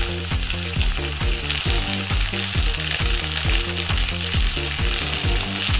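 Chopped vegetables (potato, carrot, French beans, onion and green peas) sizzling in hot oil and ghee in a kadhai: a steady frying hiss. A low, regular pulse of about three beats a second runs underneath.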